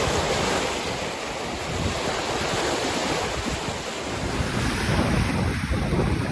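Caspian Sea waves washing on the shore in a steady wash of surf, with wind buffeting the microphone in irregular low gusts.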